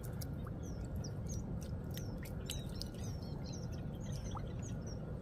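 Small birds chirping: many short, high calls in quick succession, over a steady low rumble.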